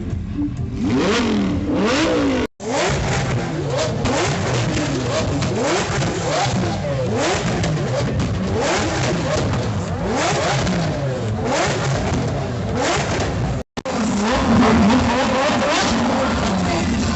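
Car engine being revved over and over, its pitch climbing and dropping back about once a second. The sound cuts out briefly twice.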